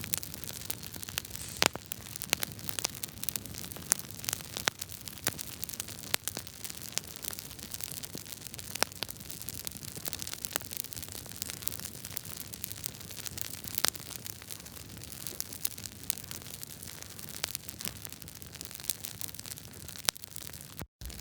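Wood fire crackling in a fireplace: a steady hiss with frequent sharp pops and snaps from the burning logs. The sound cuts out for a split second near the end.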